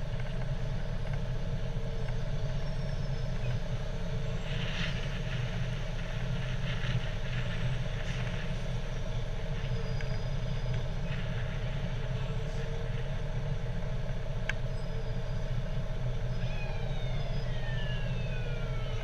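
Fire truck engine running with a steady low hum. Near the end, a high whine falls in pitch.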